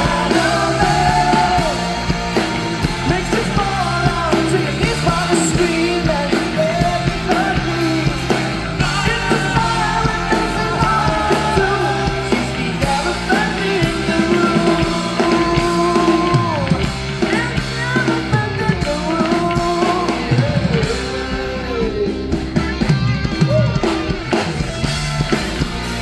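Live rock band playing loud and without a break: drums, bass and electric guitars, with a bending lead melody over them.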